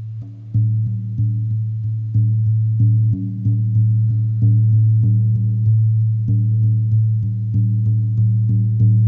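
Shamanic drumming music: a steady, low, droning tone with an even drumbeat of about three beats a second, starting suddenly.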